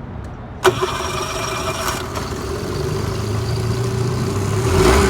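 2003 Tohatsu/Nissan outboard motor cold-started on its electric starter: it catches sharply about two-thirds of a second in, then runs steadily, getting a little louder near the end.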